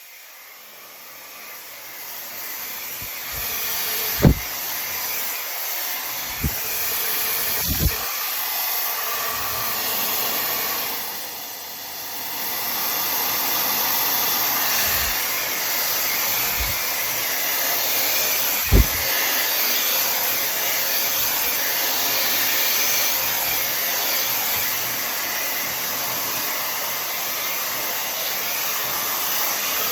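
Tymo Air Hype hair dryer blowing steadily, its airflow building over the first few seconds and easing briefly around the middle. A few short low thumps come through the blowing.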